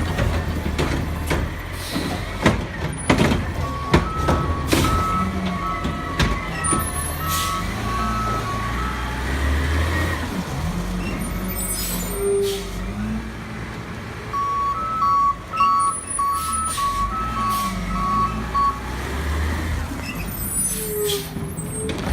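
Garbage truck running, its engine rumbling under rising and falling hydraulic whines, with a backup beeper sounding two runs of beeps. Knocks and clatter come in the first few seconds, and short air hisses near the middle and end.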